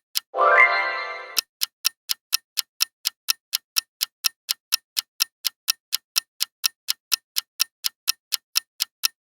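Countdown timer sound effect ticking steadily, about four ticks a second. Near the start a short pitched effect sweeps upward and fades out over the ticking.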